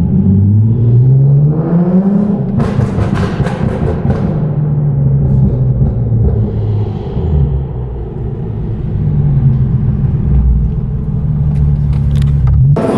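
Car engine accelerating with its pitch rising over the first two seconds, then running at a steady speed with small rises and dips.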